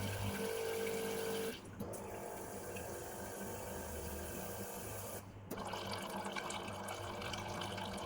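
Water running from a DeLonghi La Specialista espresso machine into a container during its descaling cycle, with the machine's pump humming steadily for the first second and a half.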